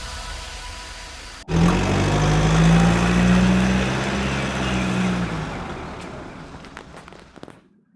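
Car-like engine sound that starts abruptly about a second and a half in, holds a steady low pitch, then fades away to nothing near the end.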